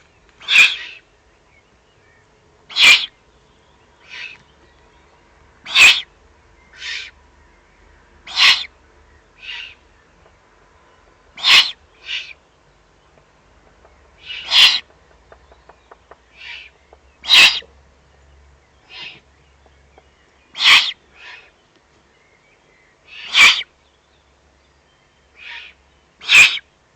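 Eurasian eagle-owl chicks giving their hoarse, hissing begging calls while being fed. The short rasps come about every three seconds, loud ones often followed by a fainter one a second later.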